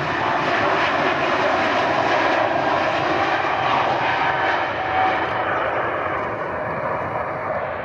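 Airliner engines at full takeoff power, a loud steady rumble of engine noise. The higher hiss fades about five and a half seconds in as the aircraft moves away.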